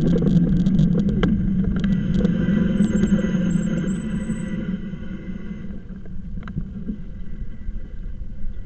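Low, steady rumble of an e-bike ride, with a run of rapid clicks in the first couple of seconds, dying down over the second half.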